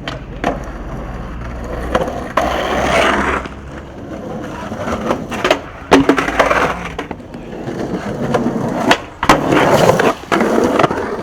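Skateboard wheels rolling, with several sharp clacks of the board: pops and landings of tricks.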